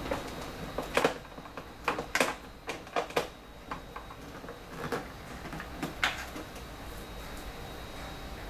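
Irregular clicks and knocks of the HP Scanjet 5590 flatbed scanner being handled, about a dozen over the first six seconds, then a low steady hum.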